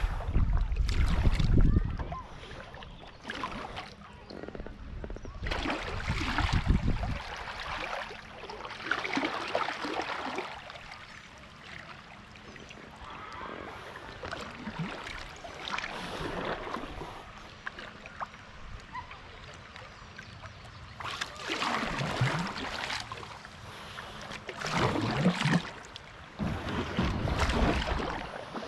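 Kayak paddle strokes splashing in river water, in uneven swells every few seconds, some with a low thump.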